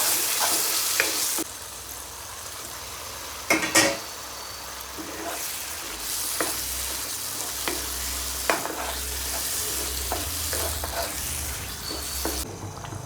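Egg korma curry sizzling and frying in a pan while a spoon stirs it, with short clicks and scrapes of the spoon against the pan and a louder knock about three and a half seconds in. The sizzle drops back after a second and a half, swells again around six seconds, and cuts off near the end.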